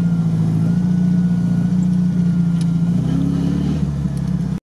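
Off-road vehicle's engine running steadily, heard from inside the cab. Its pitch rises briefly about three seconds in, then settles back, and the sound cuts off abruptly near the end.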